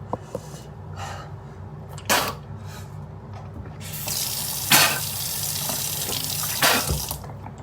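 Water running from a tap for about three seconds, starting about four seconds in, with a few short sharp breaths or sniffs around it.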